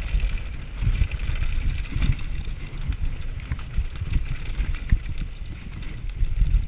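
Mountain bike descending a downhill trail: wind buffeting the camera microphone in a steady rumble, with tyre noise on the dirt and the bike clattering over bumps in irregular knocks.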